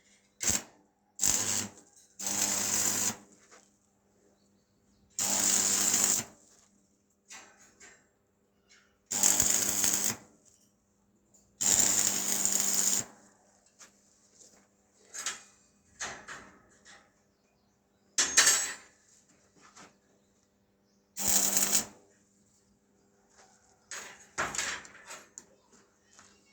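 A power tool run in short bursts of about a second each, seven or eight times with pauses between, over a steady low hum.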